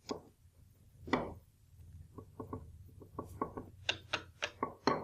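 A clamp being set and tightened on a glued wooden jig: two knocks, then a run of quick clicks, about five a second, from about two seconds in.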